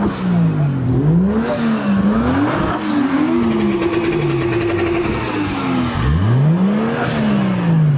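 A car engine being revved up and down several times, its pitch rising and falling, with one rev held high for a couple of seconds in the middle.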